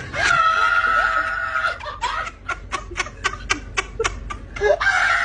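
A person laughing: a long, high-pitched squeal held on one pitch, then a run of short, sharp bursts of laughter at about four a second, and another high squeal near the end.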